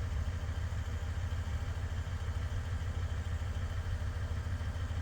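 XVenture diesel air heater running with a steady low hum.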